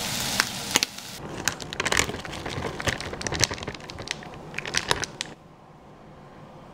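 Chicken pieces and chopped bacon frying in a pan: a bright sizzle for about a second, then a run of sharp, irregular crackles and clicks that stops a little after five seconds in.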